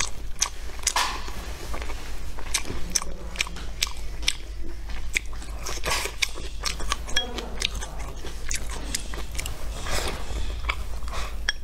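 A person chewing and biting mouthfuls of rice and stir-fried vegetables: a steady run of small mouth clicks, with no talking.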